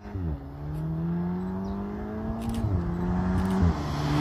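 VW Golf 7 R's turbocharged 2.0-litre four-cylinder engine accelerating hard, its revs climbing steadily and dipping briefly twice as it changes up a gear.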